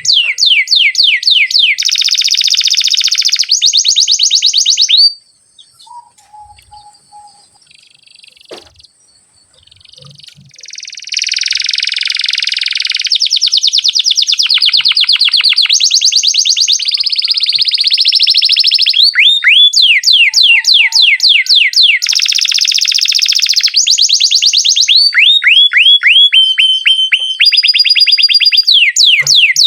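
Domestic canary singing long rolling phrases of rapid, repeated falling whistled notes. The song breaks off about five seconds in and starts again about six seconds later.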